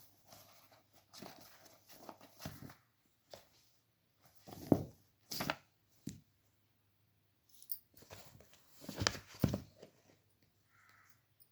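A kitten playing: irregular scuffling, scratching and soft knocks, loudest about five seconds in and again about nine seconds in.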